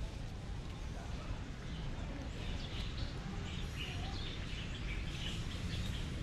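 Small birds chirping over a steady low background rumble, the chirps starting about two seconds in and repeating until the end.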